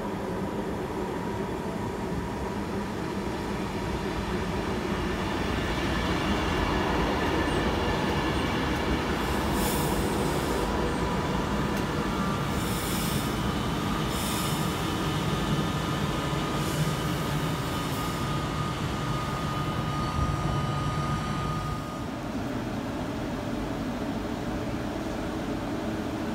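Class 390 Pendolino electric train running past the platform: a steady rumble of wheels on rail that swells in the middle, with several short high clatters and a thin steady whine in the later part. Near the end the sound drops a little.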